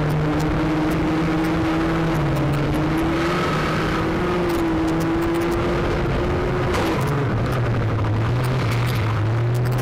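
Banger race car's engine running hard at fairly steady revs, heard from inside the car, with scattered knocks and rattles.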